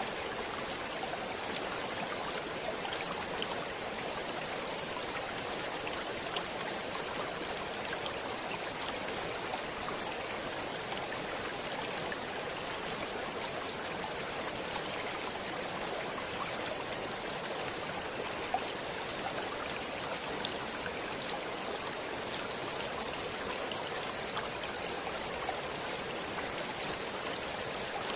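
Stream water flowing steadily: an even, unbroken rush with faint scattered droplet ticks.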